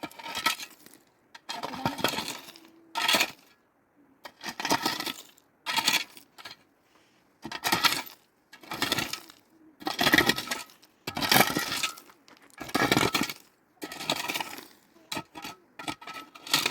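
Repeated scraping, clinking strokes of hard material, roughly one every second and a half, each lasting about half a second.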